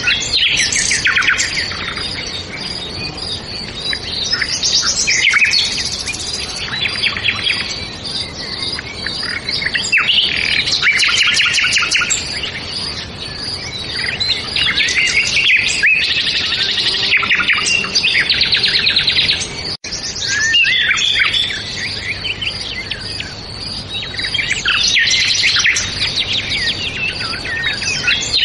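Several songbirds singing and chirping at once in a continuous chorus, with rapid trills and overlapping calls. There is a brief dropout about two-thirds of the way through.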